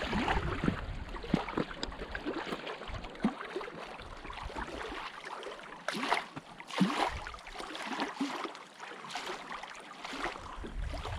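Water splashing and sloshing beside a canoe, with scattered light knocks, as a hooked fish thrashes at the side of the boat. The splashes come in short irregular bursts, the biggest about six and seven seconds in.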